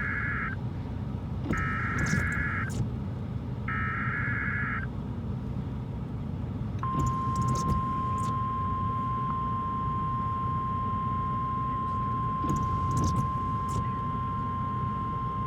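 NOAA Weather Radio alert signal. First come three short, buzzy SAME data bursts of about a second each, then a steady 1050 Hz warning alarm tone held for about nine seconds, which announces a new warning broadcast. Vehicle road noise runs underneath, with a few brief knocks.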